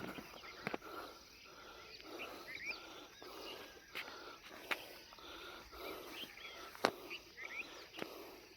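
Footsteps of a person walking on a road, with a sharp click now and then, over outdoor ambience of birds chirping briefly several times and a faint steady insect drone.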